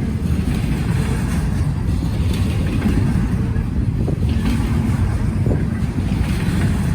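Norfolk Southern freight train rolling past in a steady low rumble of cars on the rails, with wind buffeting the microphone.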